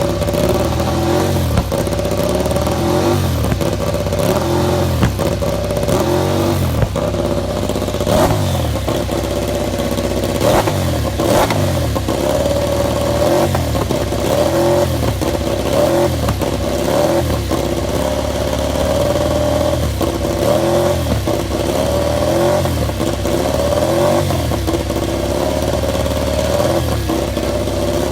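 Ducati Desmosedici MotoGP racing motorcycle's V4 engine being revved again and again, its pitch sweeping up and falling back about twice every three seconds, with a few sharp cracks.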